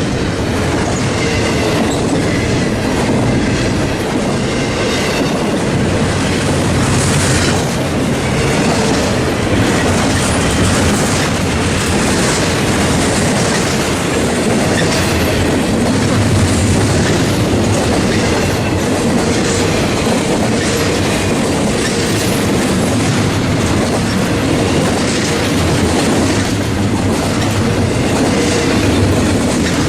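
Freight train cars rolling past, loud and steady, their wheels clicking over rail joints, with a faint thin wheel squeal at times.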